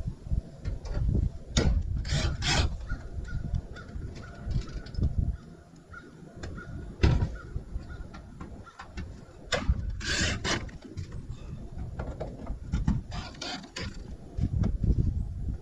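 Scattered knocks and scraping of wood and metal roofing being handled and fastened, with a few louder sharp knocks.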